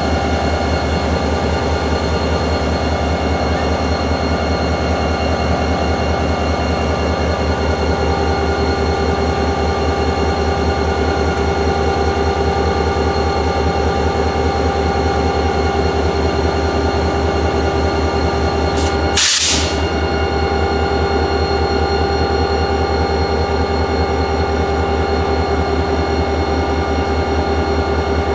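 EMD GP40-2 diesel locomotive's turbocharged 16-cylinder 645 engine running steadily, with a deep rumble and a steady whine. A short burst of air hiss comes about two-thirds of the way through.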